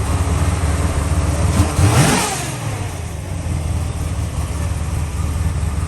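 Car engine running with a steady low rumble; about two seconds in, an engine revs up and falls back, the loudest moment.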